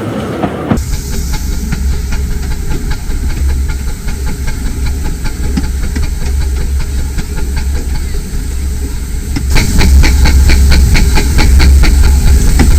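15-inch gauge miniature railway train running, heard from on board: a steady hiss over a heavy low rumble. About nine seconds in it gets louder, with a quick run of regular clicks.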